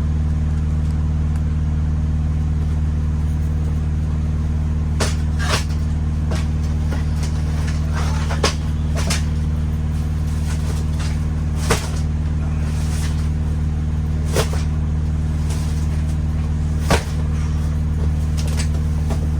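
Steady low engine drone inside a delivery truck's trailer, with sharp knocks and clunks scattered through as cases of product are shifted by hand.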